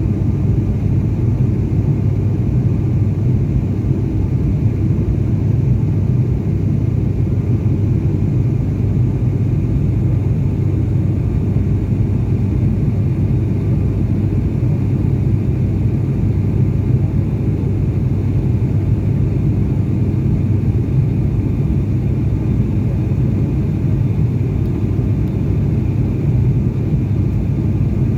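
A loud, steady low rumble that stays even, with no separate events standing out.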